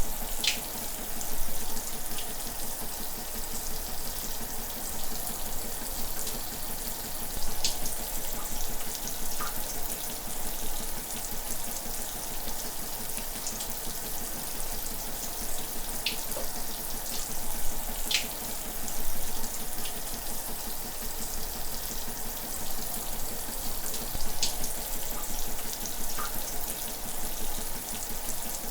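Shower running: a steady hiss of spraying water, with a few brief, sharper splashes standing out now and then.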